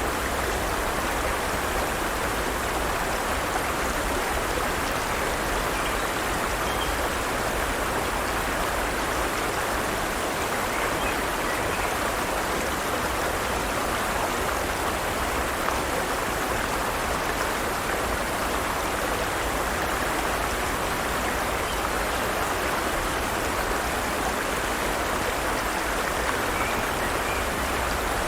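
Forest stream running: a steady rush and burble of flowing water over rocks, even and unbroken.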